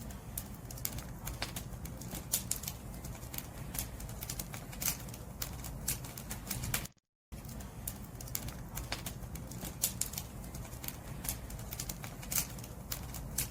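Wood fire burning, with irregular sharp crackles and pops from the firewood over a steady low rumble of the flames. The sound cuts out completely for a fraction of a second about seven seconds in.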